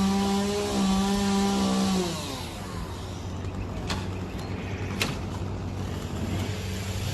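A small engine or motor running at a steady high speed, then winding down with falling pitch about two seconds in. After that a low hum continues, with a couple of sharp clicks.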